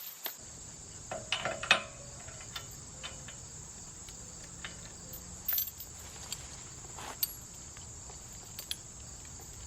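Steady high-pitched insect chirring, with scattered metallic clinks and knocks from a chain being hooked around a tree stump; the knocks are loudest a second or two in.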